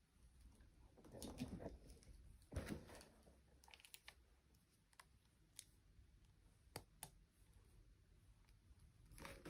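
Faint handling noises: scattered light clicks and a couple of soft rustles, as of small plastic toy parts being handled.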